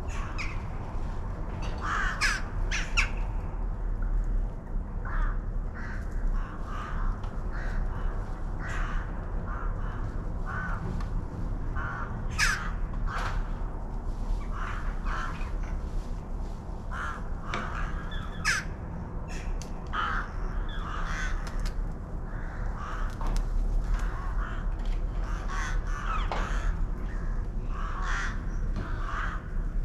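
Crows cawing again and again, several calls overlapping, over a steady low rumble.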